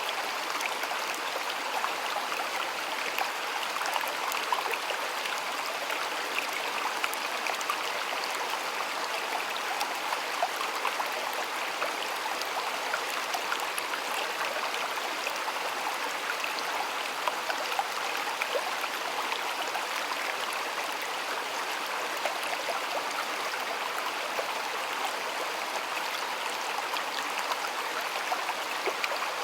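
Stream water flowing and splashing steadily, a continuous rush with many small splashes and trickles.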